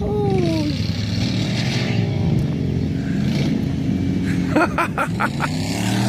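Engines of a pickup truck and ATVs running and revving off-road: a steady low drone whose revs rise and fall.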